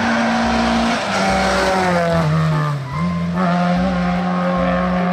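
Car engine sound holding a steady pitch, dipping lower about two seconds in and climbing back near three seconds, over background music with a steady low beat.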